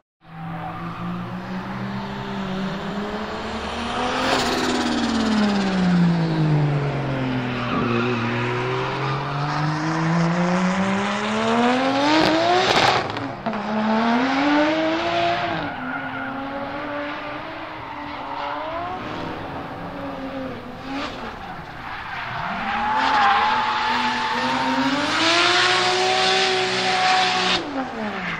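Turbocharged Toyota 2JZ-GTE straight-six in a drifting BMW M3 E46, revving up and down in long sweeps of pitch while the tyres squeal under the slide. The tyre noise is heaviest around four to six seconds in, around twelve seconds, and again in the last few seconds.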